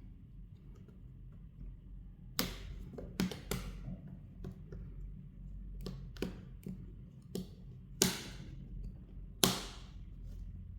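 Irregular sharp clicks and taps, about ten in all, starting a couple of seconds in, with the two loudest near the end: a smartphone and small tools being handled while the phone is put back together.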